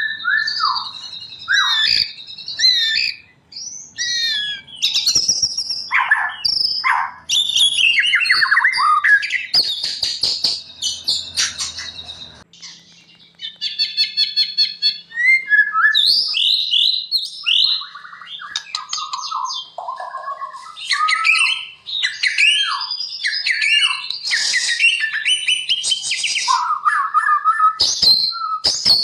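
White-rumped shama (murai batu) singing a fast, varied song of loud whistled phrases, many sliding down in pitch, mixed with high chips. About halfway the song breaks briefly, then a fast rattling trill follows before the whistles resume.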